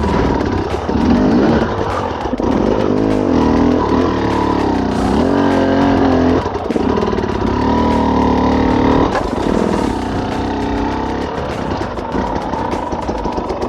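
Enduro dirt bike engine revving in repeated throttle bursts, the pitch rising and falling again and again as the bike works up a rocky climb.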